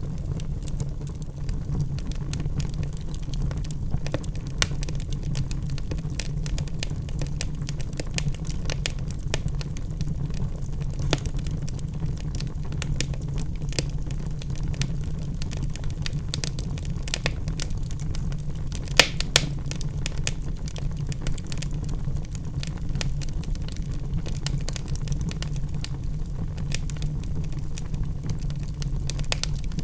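Wood fire burning in a fireplace: a steady low rumble of the flames under frequent crackles and pops from the burning logs, with two louder snaps a little past the middle.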